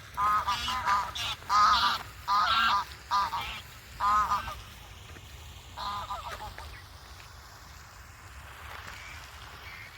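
Geese honking: a quick run of loud repeated calls for the first four and a half seconds, then one more call about six seconds in.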